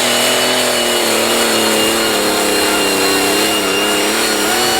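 Pro-stock John Deere pulling tractor's turbocharged diesel engine running flat out under load. Its pitch sags and wavers from about two seconds in as the sledge bears down, then climbs again near the end.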